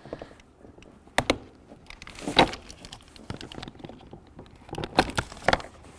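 Plastic electrical connectors on a car door panel's wiring being unplugged, their tabs pressed in and the plugs pulled free: a handful of separate sharp plastic clicks with light handling rustle between them.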